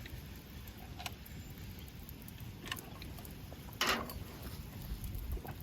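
Quiet outdoor ambience with a low rumble, a few faint clicks, and one short, louder scraping noise about four seconds in.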